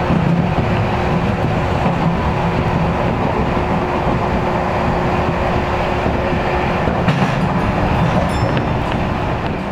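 Tobu Tojo Line electric train running along the platform: a loud, steady rumble of wheels on rail with a steady hum. The hum drops away about seven seconds in, and the sound eases slightly near the end.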